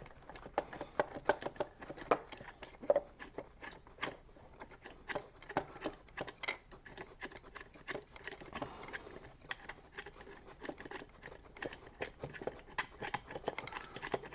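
Irregular light clicks and knocks of a wooden chair and small hardware being handled and worked on by hand.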